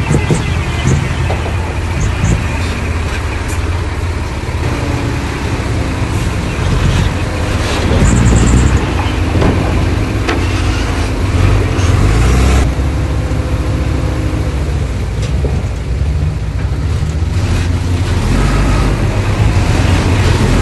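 Diesel engine of heavy earthmoving machinery running with a steady low drone, with scattered clanks and a brief high squeal about eight seconds in.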